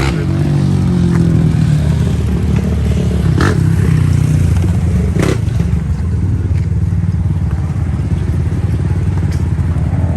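Several ATV and dirt bike engines running near idle together, a steady low drone with a few sharp clicks.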